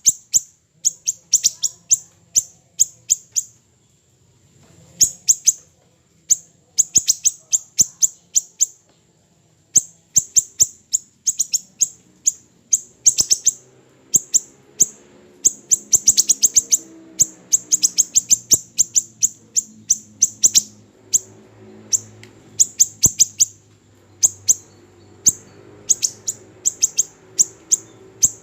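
Siri-siri kecil songbird calling: rapid runs of sharp, very high chirps, several a second, in bursts with short pauses between them.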